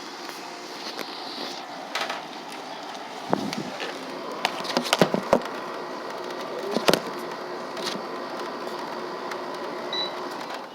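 Steady hiss of rain falling during a thunderstorm, with scattered sharp taps and knocks, the loudest about five seconds in.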